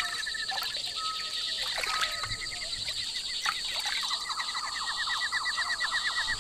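Rainforest ambience: birds calling with short whistled notes and a fast, repeated chirping that grows stronger partway through, over a steady high buzz.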